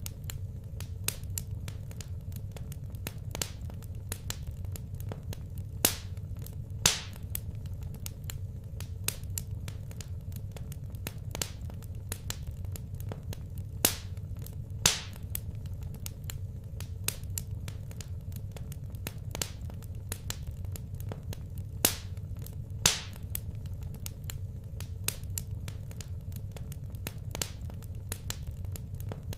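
Wood fire crackling in a fireplace: a stream of small irregular snaps with louder pops in pairs about every eight seconds, over a steady low rumble.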